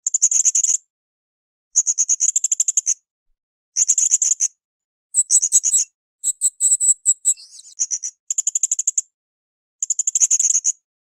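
Blue-crowned hanging parrot (srindit) calling: a run of rapid, very high-pitched notes lasting under a second, repeated about every two seconds, with a longer, more varied run in the middle.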